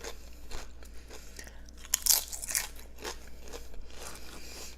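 Close-miked eating: tortilla chips crunched and chewed in irregular bites, the loudest crunch about two seconds in.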